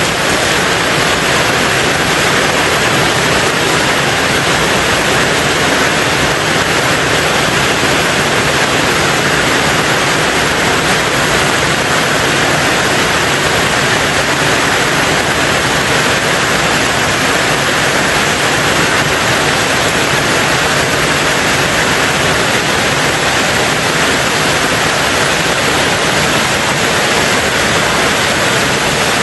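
Steady rain falling on a tin roof: a dense, even hiss with no breaks or single hits standing out.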